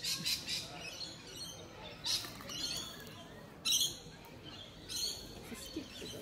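Small birds chirping. A quick trill at the start is followed by short high calls about two, three and a half, and five seconds in, the middle one loudest.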